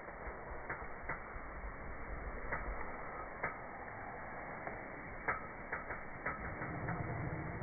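Wood fire crackling, with a steady hiss and irregular sharp pops, the loudest about three and a half and five seconds in.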